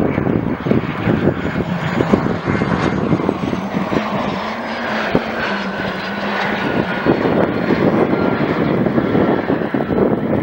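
Cessna Citation Encore+ business jet's twin Pratt & Whitney PW535B turbofans running loud as it lands and rolls out, with a turbine whine slowly falling in pitch.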